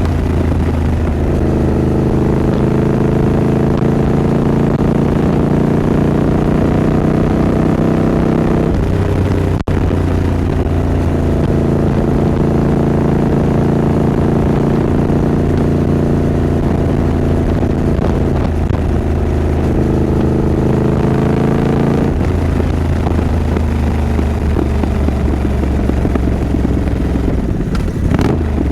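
Triumph Scrambler 900's parallel-twin engine and exhaust running steadily under way, with small shifts in pitch. The sound drops out for an instant about ten seconds in, and the revs climb near the end.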